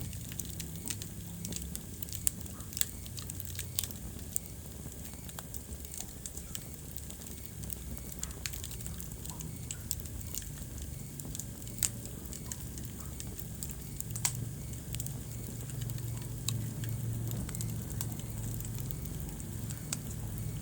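Wood fire burning in a fireplace: a steady low rumble of the flames with scattered crackles and a few sharper pops.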